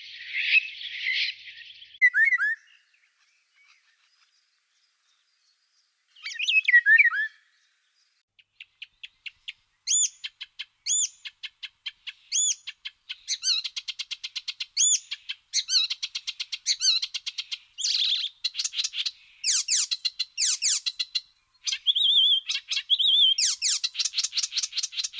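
Forest songbirds singing. A scratchy phrase ends about two seconds in. After a pause comes a short falling call, and from about eight seconds a fast ticking trill with clear, repeated arched notes, growing denser toward the end.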